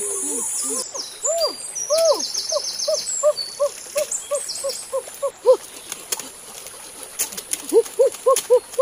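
A bird calling a long series of short hooting notes, each rising and falling, about two to three a second, over a high steady buzz. A quick burst of fast high chirps comes about a second and a half in.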